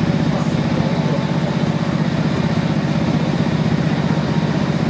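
Steady low rumble of diesel trains heard from inside a railway carriage, with a fast, even pulsing, while another passenger train passes close alongside.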